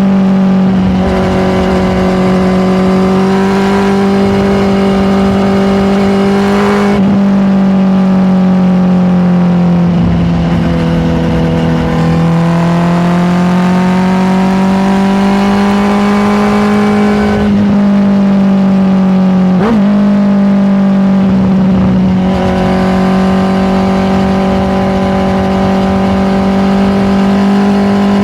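Honda CBR650R's inline-four engine running at steady road-cruising revs. The note sags a little around the middle and climbs back, with one short sharp blip about two-thirds of the way through.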